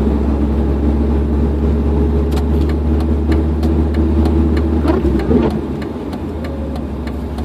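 1998 Dodge Dakota pickup heard from inside the cab: a steady deep engine and road drone, with many sharp, irregular ticks from about two seconds in and a brief wavering tone about five seconds in.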